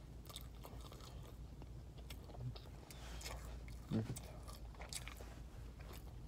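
Close-up mouth sounds of a person chewing a mouthful of McDonald's cheeseburger: many short, wet clicks of lips and tongue, with one brief louder low sound about four seconds in.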